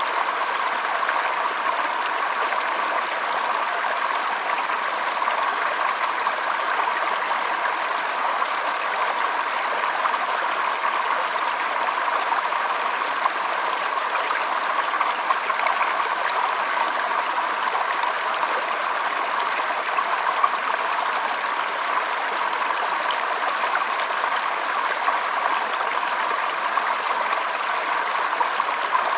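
Shallow stream trickling steadily over stones, a constant burble of water with small splashes here and there.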